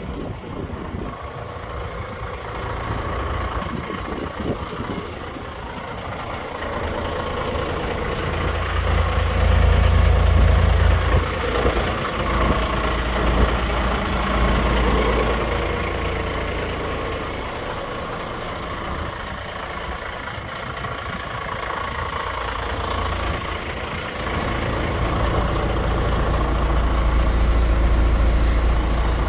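Renault 110.150 4x4 truck's diesel engine running with a reversing alarm beeping steadily. The engine grows louder around ten seconds in and again near the end, as if it is being driven or revved.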